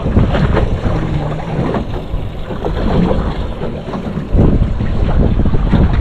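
Wind buffeting the microphone aboard a small boat on choppy water, a steady low rumble that gets louder about four seconds in.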